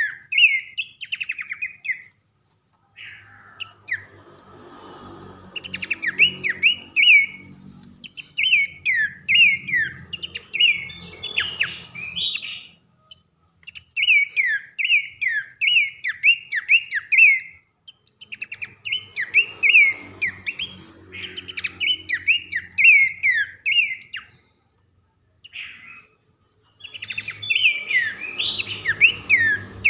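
Pelanduk semak (Horsfield's babbler) singing loud whistled notes that each sweep down in pitch. The notes come about two a second, in phrases a few seconds long separated by short pauses, with a faint low hum under some phrases.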